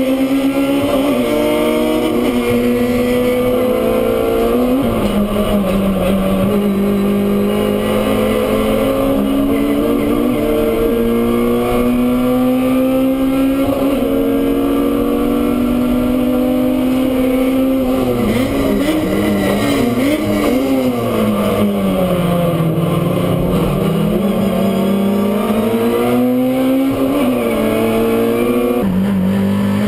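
Race touring car engine heard from inside the cockpit at full throttle, its note climbing in pitch and dropping sharply at upshifts about a second in and again about five seconds in. Past the middle it falls away with a few short wobbles as the car slows for a corner, then climbs again and shifts up once more near the end.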